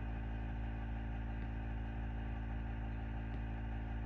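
A steady low hum with several fixed tones, unchanging throughout: background machine or electrical hum in the room.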